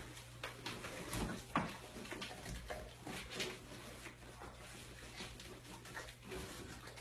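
Pit bull chewing and tearing at a large chunk of raw beef: irregular wet smacks and crunches of uneven loudness, over a low steady hum.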